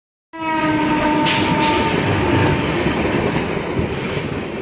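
A train horn sounds for about two seconds over the rumble of a passing train. The rumble then fades away near the end.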